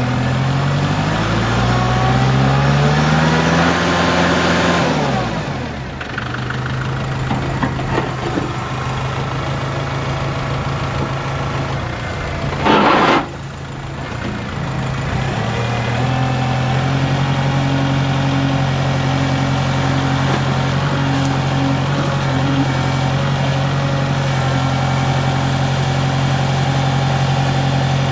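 The four-cylinder Kubota diesel engine of a Kubota L4060 tractor revs up over a few seconds, drops back to idle, then holds a steady higher speed. A brief loud burst of noise comes about halfway through.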